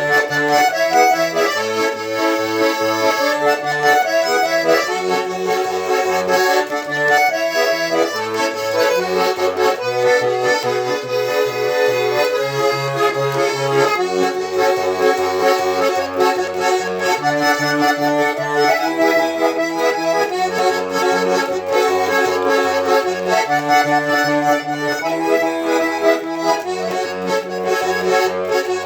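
Russian garmon (button accordion) played solo, with no singing: a melody in chords over a steady pulsing bass.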